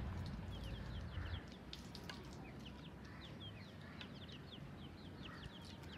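Birds chirping: a steady stream of short, high chirps, each sliding downward, several a second. A low rumble fades out about a second and a half in.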